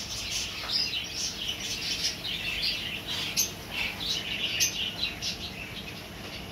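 Many small caged birds chirping at once: a busy, continuous chatter of short, high overlapping chirps.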